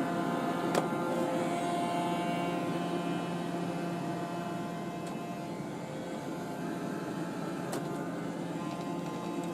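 iRobot Roomba e5 robot vacuum running: a steady motor whir with a faint high whine, and two sharp clicks, about a second in and near the end.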